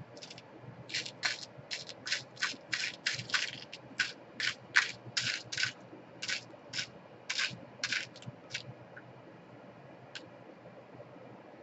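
Toshiba Satellite C55 laptop's plastic case being pressed shut: a quick run of short plastic clicks and scrapes, about three a second, that stops about nine seconds in.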